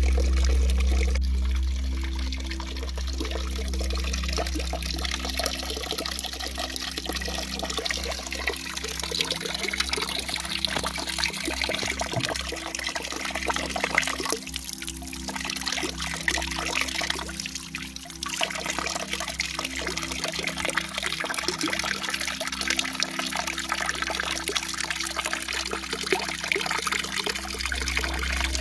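Water falling and splashing steadily from a waterfall fountain made from an oak trunk, with a steady low hum underneath.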